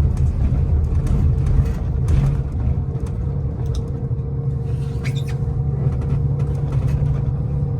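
Steady low rumble of a motor vehicle running, with a constant hum over it.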